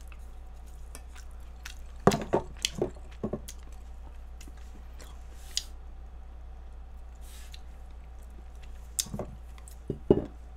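Close-up wet chewing of a mouthful of raw beef and raw octopus, with sharp squishy mouth smacks in two clusters, near the start and near the end, over a steady low electrical hum.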